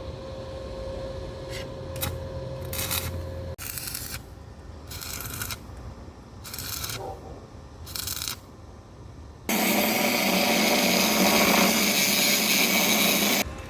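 Electric arc welding on a metal gate: several short arc bursts, then one loud steady stretch of arc noise lasting about four seconds.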